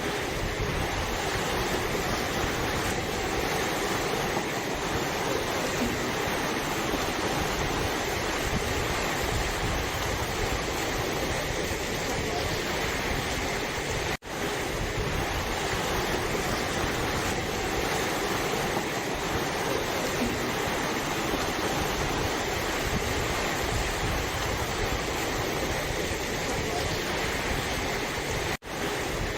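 Steady rushing of floodwater on the swollen Kosi River, a constant noise. It cuts out for a moment twice.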